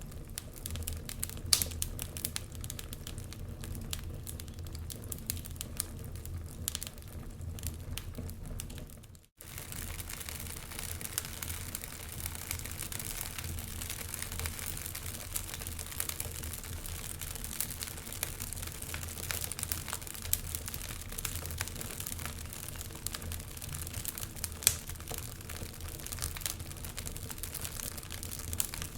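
Wood fire burning in a fireplace: a steady low rumble of the flames with irregular crackles and pops of burning wood. The sound drops out for an instant about nine seconds in.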